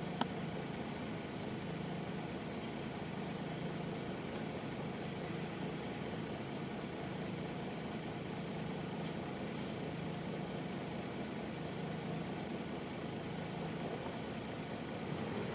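Nissan Diesel Space Runner RM midi-bus's FE6 diesel engine running steadily, heard from inside the bus, with one sharp click near the start.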